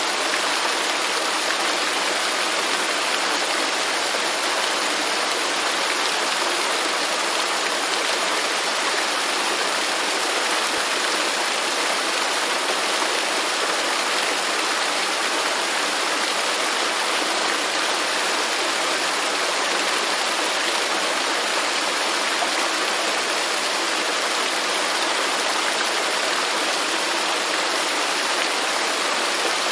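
Waterfall in a rainforest: water falling and rushing in a steady, even hiss with no breaks.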